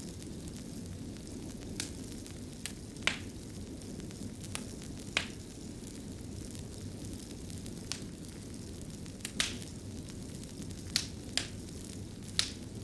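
Wood fire crackling in a fireplace: a steady low rush of burning with about a dozen sharp pops and snaps at irregular intervals.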